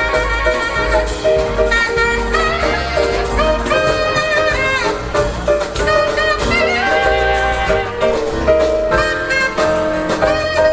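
Live jazz band playing: a melody line over walking bass, piano and drums, with saxophone and brass in the sound.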